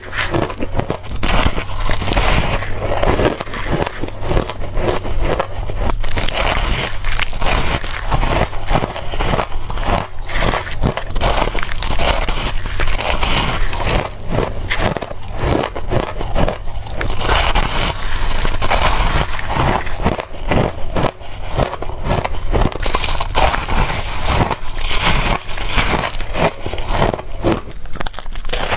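Crushed ice chunks being bitten and chewed close to the microphone: a dense, unbroken run of loud, irregular crunches and crackles.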